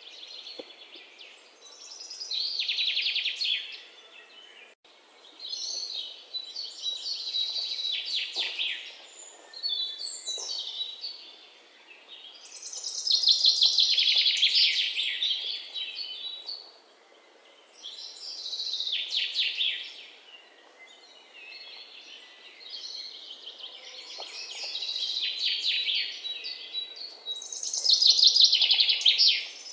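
Bird song: phrases of rapid trilled chirps, each one to a few seconds long, coming one after another with short pauses between.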